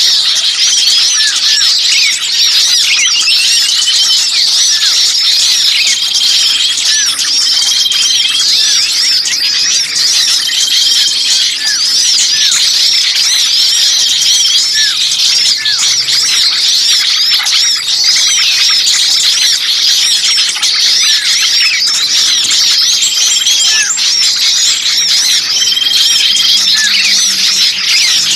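Dense chorus of small songbirds calling without pause: rapid high-pitched chirps and squeals with short repeated phrases and occasional lower falling notes. It is a lure recording of noisy, 'pinched' (kejepit) small-bird calls of the kind used to draw birds in for trapping.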